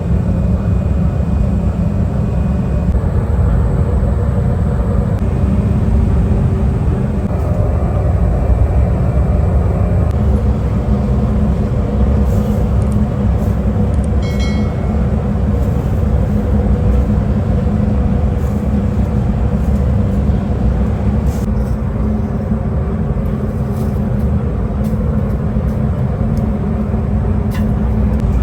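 Heavy factory machinery running with a steady, loud, low drone, with a few faint clicks now and then.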